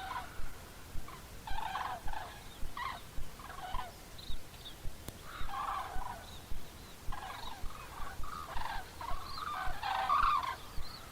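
Large birds calling in short, gabbling bursts that overlap, growing busier in the second half.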